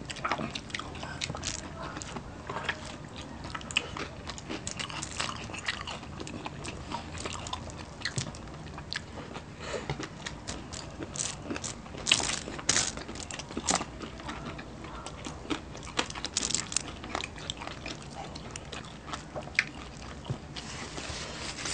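Close-miked chewing and crunching of crispy fried food, crispy sisig and fried tilapia: irregular crisp crunches and bites, a little denser around the middle and near the end.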